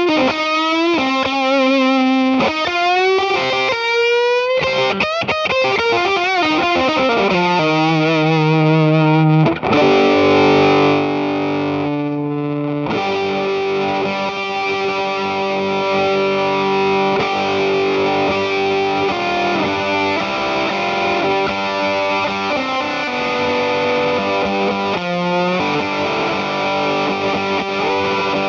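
Electric guitar played through an EarthQuaker Devices Sound Shank germanium fuzz pedal. It starts with a fuzzy single-note lead line with bends and wide vibrato, then about a third of the way in moves to held notes and chords that ring out with long sustain.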